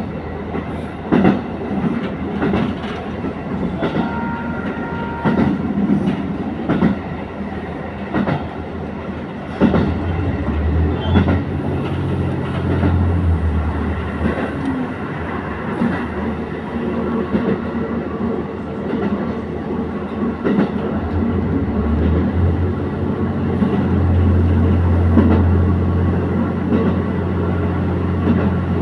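Diesel railcar running along the line, its wheels clicking over rail joints at irregular intervals over a steady low engine drone that grows louder about a third of the way in and again past the middle as the engine takes more power.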